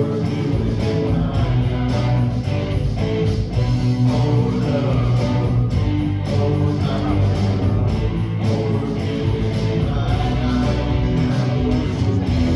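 Live worship band playing an instrumental passage of a song, with guitar and a steady beat.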